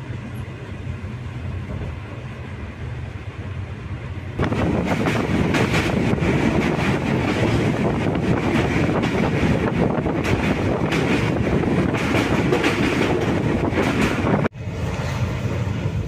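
Indian Railways express train running on the track: a steady rumble and rattle of the coach. It is quieter at first, then much louder from about four seconds in, with many short clicks, and drops out briefly near the end.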